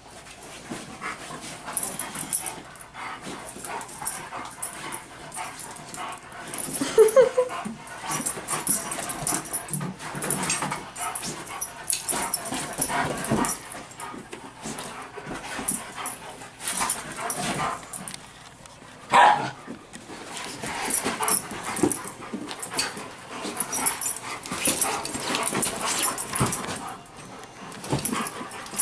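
A Siberian husky puppy and a German Shepherd play-fighting: scuffling and jostling with scattered short yips and whines, and one louder cry about 19 seconds in.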